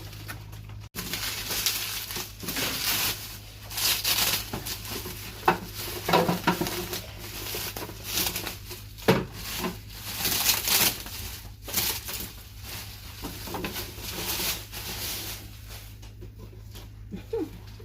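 Plastic packaging crinkling and rustling in irregular bursts as refrigerator accessories are unwrapped and handled, with a few sharp knocks. A steady low hum runs underneath.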